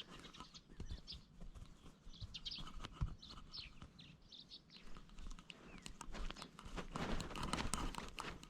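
Faint bird chirps, short and high, in the first half. Near the end comes a louder rustling, scratching noise.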